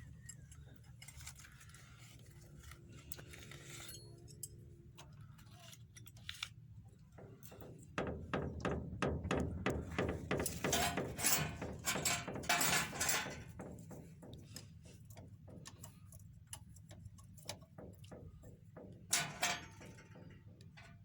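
Rapid metallic clicking and clinking, like tools working on metal parts, over a steady low hum. The clicks come thick and fast from about eight seconds in to about fourteen, with a short burst again near the end.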